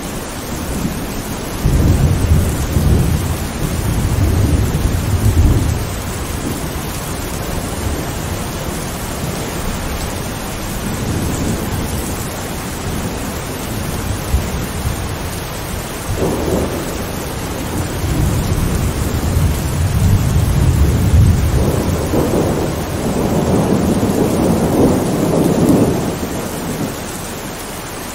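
Thunderstorm with steady rain. Thunder rumbles about two seconds in for several seconds, then a longer rolling peal builds from about halfway and dies away near the end.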